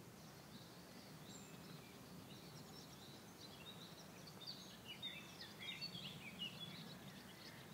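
Faint birdsong: scattered short, high chirps over a quiet steady background, busiest in the middle.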